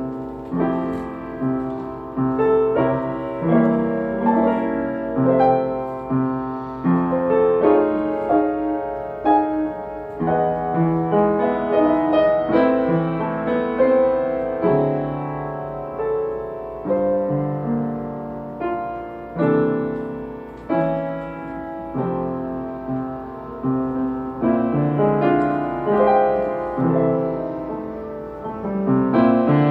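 Solo jazz piano playing a slow ballad: rich chords voiced with added tensions and upper-structure triads, each struck chord decaying before the next.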